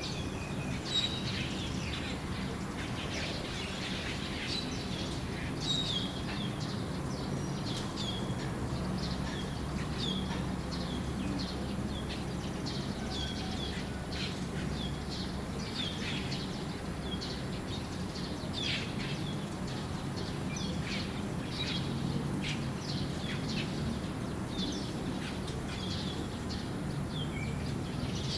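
A flock of red-eyed starlings, likely Asian glossy starlings, giving many short, high chirping calls, often sliding downward, over a steady low hum.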